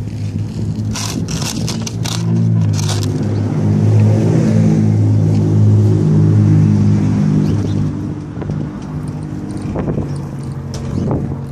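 A motor vehicle's engine running with a steady low hum that grows louder toward the middle and then fades. A few sharp clicks come near the start.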